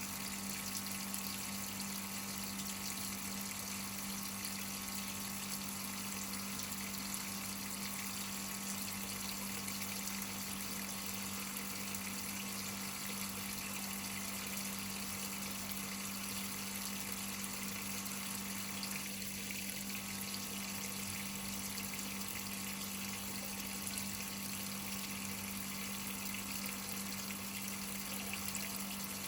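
Whirlpool top-load washing machine filling its tub with water: an even rush of incoming water with a steady low hum under it.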